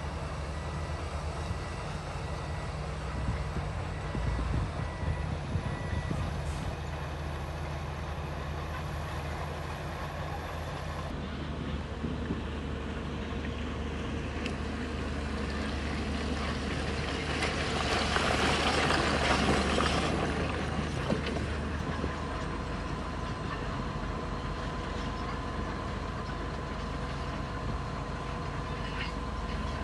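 Diesel engines of heavy earthmoving machinery running steadily, with a louder, harsh noisy stretch of a few seconds past the middle.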